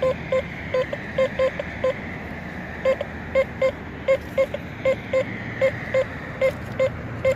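Teknetics T2SE metal detector sounding its high tone in repeated short beeps, all at one pitch and unevenly spaced, as the coil passes over a target. It is a stable good-target signal reading 80-81, which the detectorist takes for a copper penny or a dime.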